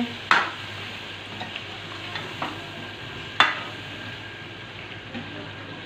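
Chicken, tomatoes and spices sizzling in oil in an aluminium pot while a metal ladle stirs and scrapes through them. The ladle knocks sharply against the pot twice, just after the start and about halfway through, with a few lighter taps between.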